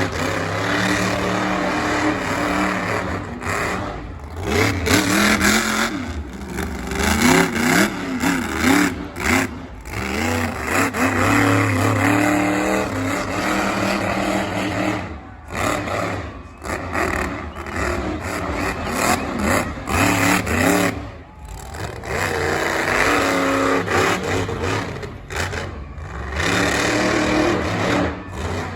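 Heavy truck engine revving hard, its pitch climbing and falling repeatedly as it works, with the sound cutting out briefly several times.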